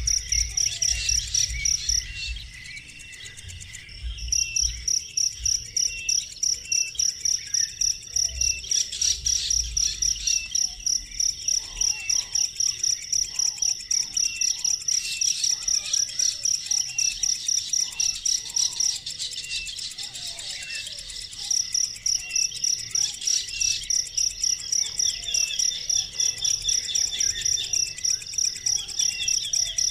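A high-pitched insect trill pulsing steadily about three times a second, breaking off twice for a couple of seconds, with repeated short bird-like chirps behind it.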